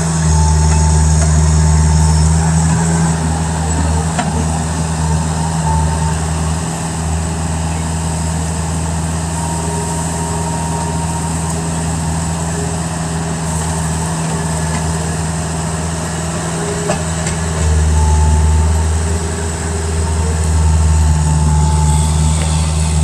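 Skid-steer loader's diesel engine running at a steady speed, its low drone swelling and easing a few times as it works.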